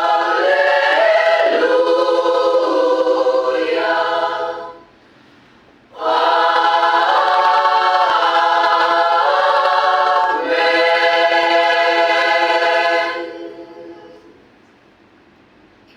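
Choir singing unaccompanied in two phrases: the first breaks off about five seconds in, the second starts a second later and ends on a held chord that dies away near the end.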